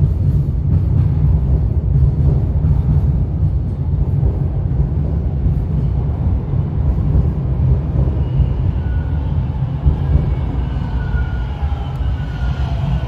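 TTC subway train moving along the platform with a loud, steady, heavy low rumble. Whining motor tones join in about eight seconds in and grow stronger toward the end.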